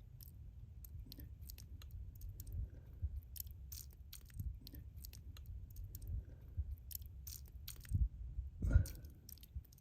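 Handling noise from a camera held in one hand: irregular small clicks and crackles over a low rumble, with a louder bump near the end.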